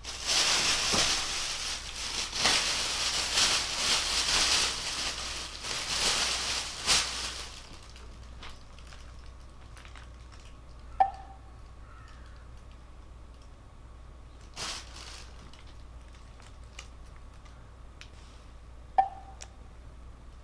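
Crinkling and rustling of plastic packaging for about seven seconds. Later, two brief cat calls, each short with a slight bend in pitch, come about eight seconds apart.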